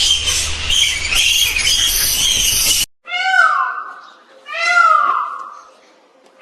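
A dense, high-pitched squeaking and chirping that cuts off suddenly about three seconds in, followed by a domestic cat meowing twice, each meow drawn out and falling in pitch.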